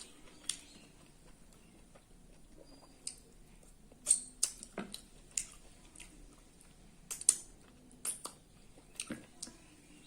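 A person eating rice: chewing with sharp mouth smacks and clicks at irregular intervals, a few of them louder.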